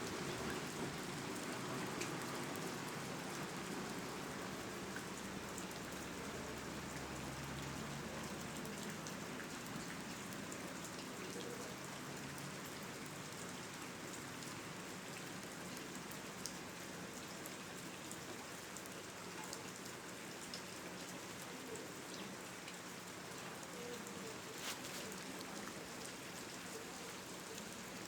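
Steady rushing noise with scattered faint ticks, easing slightly in level.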